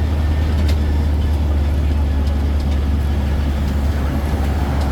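Steady low rumble of a road-going tourist train in motion, heard from on board.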